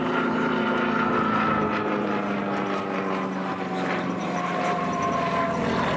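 An aircraft flying past with a steady engine drone whose pitch slowly falls as it passes.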